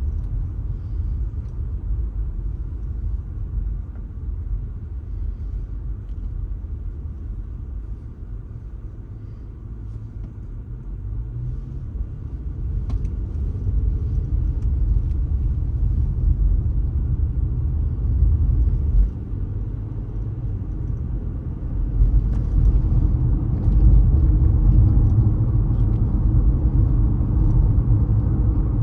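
Car driving on city roads: a steady low road and engine rumble. It eases off about a third of the way in, then builds again and is loudest near the end.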